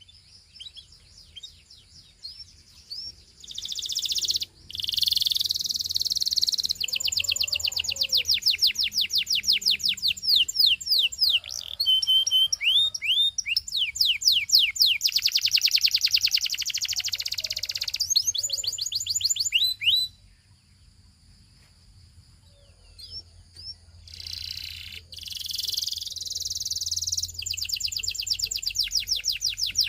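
Belgian singing canary singing in long phrases of very fast trills and rolls of repeated high notes, pausing briefly about two-thirds of the way through before starting again.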